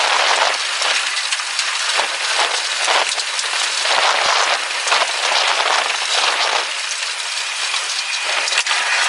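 Loud, steady rush of wind-driven rain, peppered with many small ticks and clatters of drops or debris striking the vehicle in the tornado's gusts.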